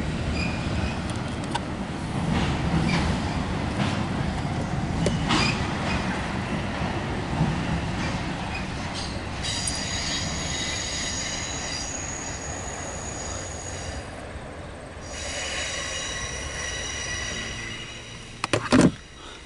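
Double-stack intermodal freight train rumbling across a steel overpass, with a steady high-pitched squeal of steel wheels on the rails setting in about halfway through, breaking off briefly and then returning. A few sharp knocks come just before the end.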